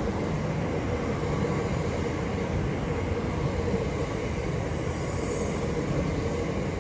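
Class 375 Electrostar electric multiple unit running along the platform, a steady rumble of wheels on rail with a faint electric hum.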